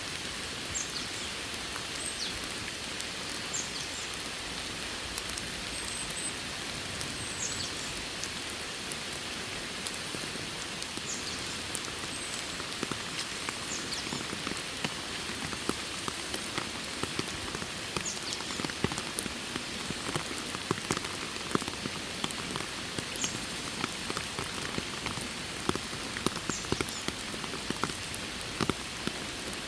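Steady rain falling, with individual drops ticking sharply and more often in the second half. Short faint high chirps come now and then.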